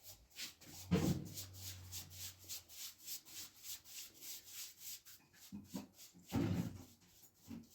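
Rapid back-and-forth rubbing strokes on a hard surface, about four or five a second, as in scrubbing or sanding, with two heavier thuds, one about a second in and one near the end.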